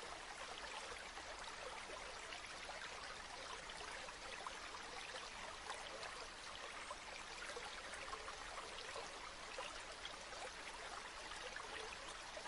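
Faint, steady babbling of a flowing river, an even rush of water with many small splashes and trickles.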